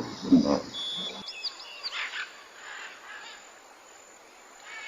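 Birds chirping: a few short, high chirps about a second and a half in, and short falling chirps near the end, over faint outdoor background noise. A brief, louder low sound comes right at the start.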